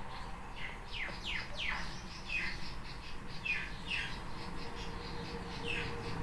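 Birds chirping: a scattered series of short, quick chirps that each fall in pitch, coming at uneven intervals, sometimes two or three close together.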